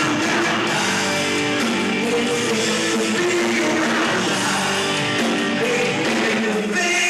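Rock band playing live, led by electric guitar, with a full, steady sound.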